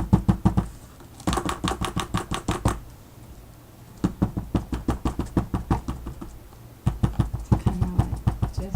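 Rapid dabbing of paint onto the art paper, heard as quick runs of light taps at several a second, broken by short pauses.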